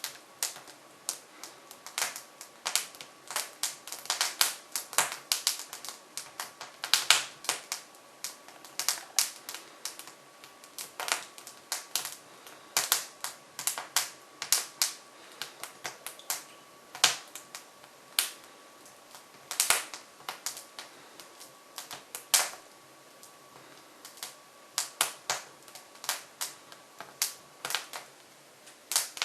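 Hardwood fire crackling in the open firebox of a Jøtul F500 wood stove: irregular sharp snaps and pops, several a second, some louder than others.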